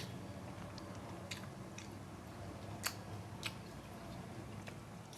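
A person eating mukbang-style close to the microphone: quiet chewing with a few sharp, separate mouth clicks and smacks.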